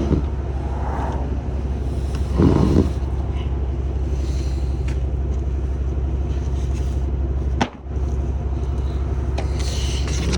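Motor vehicle running with a steady low rumble. There is a brief louder scrape or rustle about two and a half seconds in, and a sharp click with a momentary drop in the sound about three-quarters of the way through.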